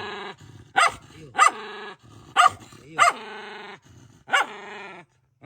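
A mother dog barking about five times, each sharp bark trailing into a short drawn-out note: she is guarding her newborn puppies and warning a person off the nest.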